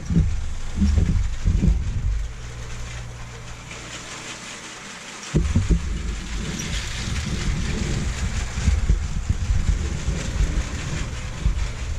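Lego Power Functions cargo train running around plastic track: a steady rattling rumble from the motor and the wheels clicking over the rails. The deep part of the rumble drops away for a couple of seconds near the middle, then comes back.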